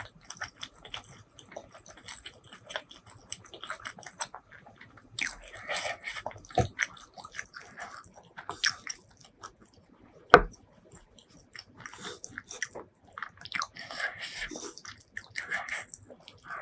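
Close-miked eating: a person takes crunchy bites and chews, with bouts of crisp crackling between quieter stretches of small wet clicks. One sharp, louder click comes about ten seconds in.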